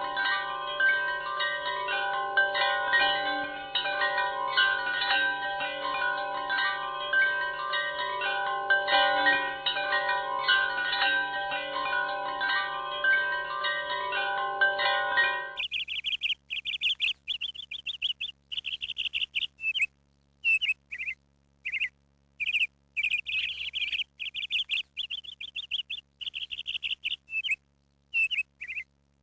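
Wind chimes ringing in many overlapping tones; about halfway through this cuts off abruptly and a small bird chirps in short repeated bursts, with silence between them.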